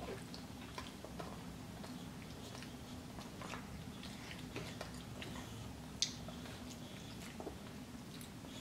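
Children chewing and biting into chicken nuggets and cucumber slices: soft wet mouth sounds and small crackly clicks, with one sharp click about six seconds in, over a steady low hum.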